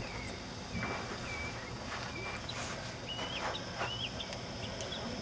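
A bird singing a series of short whistled notes, some flat and some rising at the end, over a steady outdoor background noise.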